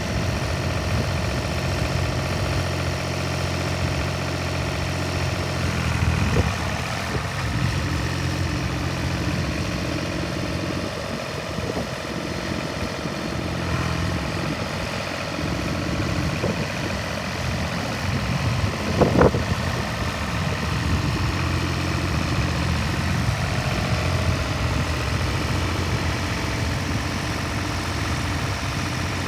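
Universal 530 tractor's diesel engine running at idle, its note shifting a few times, with a short sharp rising sound about two-thirds of the way through.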